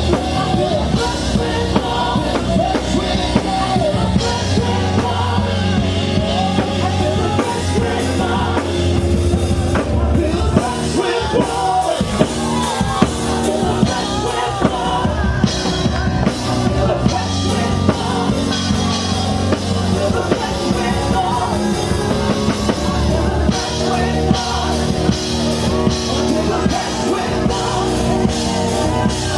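Live worship band with a drum kit playing, and voices singing a spontaneous worship song over it.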